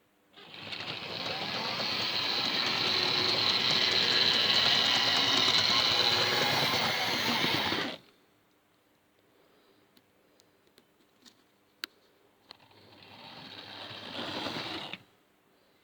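OO-gauge model locomotive running along the track, its small electric motor whirring and its wheels clattering on the rails. The sound builds for a few seconds and stops suddenly about eight seconds in. After a few faint clicks, a second, quieter run builds for about two seconds and stops abruptly.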